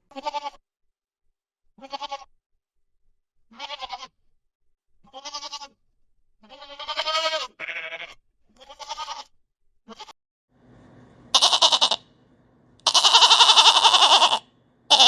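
Goat bleating, a series of about seven short wavering bleats one to two seconds apart. Near the end a louder, harsher sound comes in twice over a low hum, the second time lasting about a second and a half.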